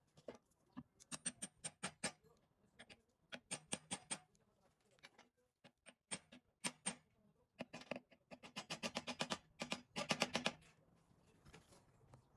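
Hand ratchet wrench clicking in short runs of quick, even clicks, the longest and loudest run about eight seconds in.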